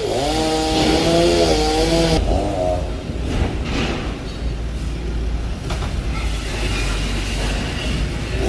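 Two-stroke chainsaw engine running, its pitch wavering slightly for the first couple of seconds, then dropping away to a steady low rumble with a few faint knocks.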